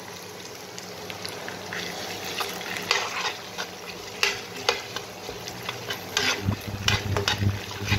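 Diced onions, whole spices and ginger-garlic paste sizzling in hot oil in a pan. A metal spoon stirs them with irregular scrapes and taps against the pan, starting about a second and a half in and coming more often toward the end.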